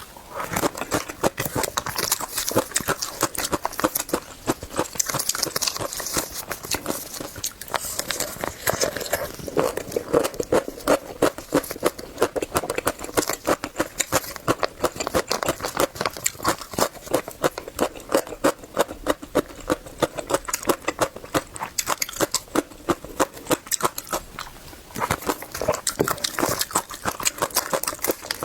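Close-up chewing and crunching of food, a dense run of rapid crisp crackles and clicks that keeps going throughout.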